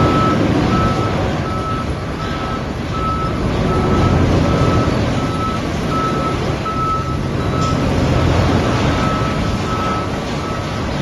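Heavy machinery running loud and steady with a low rumble, while a reversing alarm beeps in an even series, about three beeps every two seconds.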